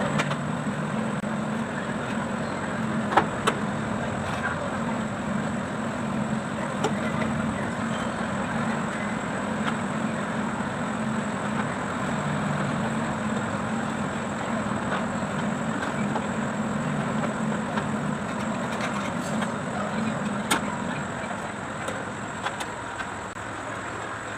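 Kubota D905 three-cylinder diesel engine running steadily at a constant speed, with a few sharp clicks over it.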